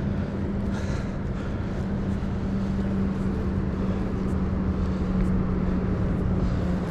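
A steady, engine-like drone with a constant low hum, over a haze of outdoor background noise.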